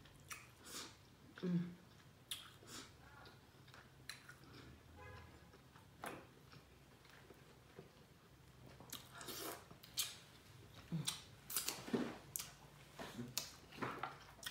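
Close-up chewing and lip-smacking: a person eating seafood boil with her fingers. Scattered short wet clicks and smacks, busier in the second half.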